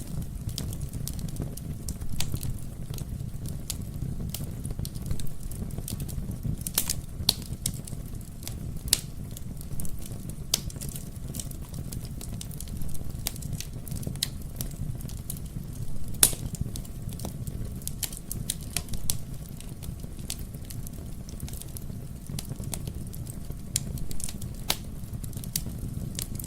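Wood fire burning in a fireplace: a steady low rumble of flame with irregular sharp crackles and pops from the burning logs, a few louder snaps among them.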